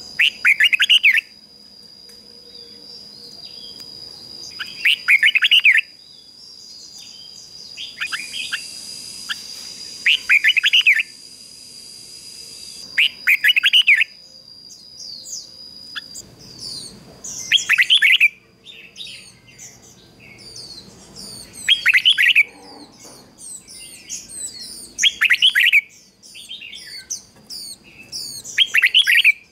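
Red-whiskered bulbul singing: a short, loud warbled phrase repeated about every three to four seconds, about eight times. From about halfway in, quicker, higher chirps join in between the phrases.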